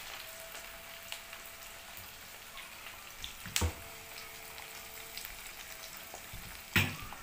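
Sliced onions and habanero pepper frying in red palm oil in a frying pan: a steady sizzle with small crackles. Two sharp knocks sound, one about halfway through and a louder one near the end.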